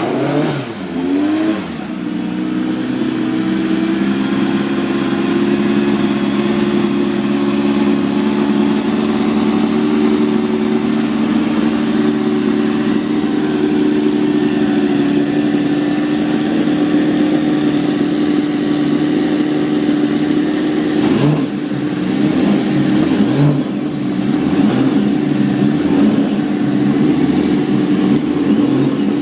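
A classic sports car engine revs briefly at the start, then idles steadily at a high, even pitch. About three-quarters of the way through it changes, followed by a few short throttle blips.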